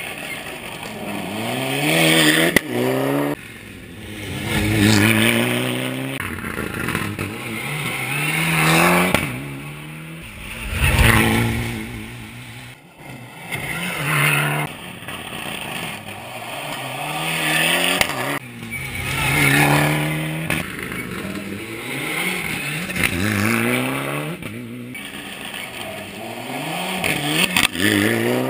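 Rally car engine revving hard, its pitch climbing steeply and dropping again over and over as it accelerates, shifts and lifts off the throttle.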